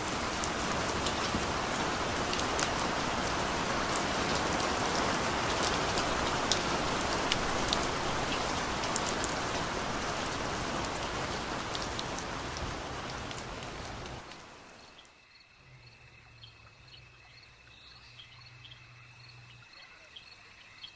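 Steady rain falling, with individual drops ticking sharply on a surface. About fourteen seconds in the rain fades out, leaving a much quieter background with a faint steady high tone and faint repeated chirps.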